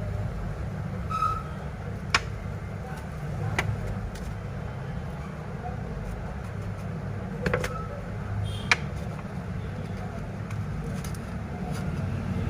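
Steady low rumble of background traffic with a few sharp, separate clicks of small tools on a phone being taken apart.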